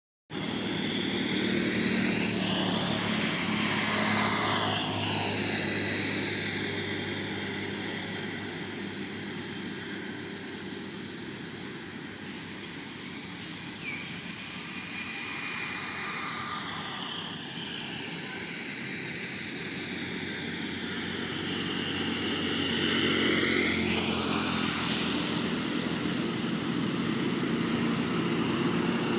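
Steady motor-vehicle engine noise that swells and fades several times as vehicles pass by.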